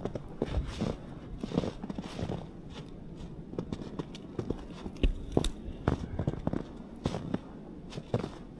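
Footsteps crunching through snow at a walking pace, irregular steps with a sharper crack about five seconds in.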